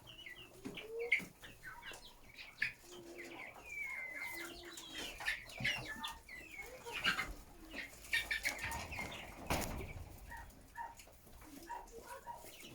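A flock of chickens clucking and calling, many short high calls over lower clucks, with a brief rustling burst about three-quarters of the way through.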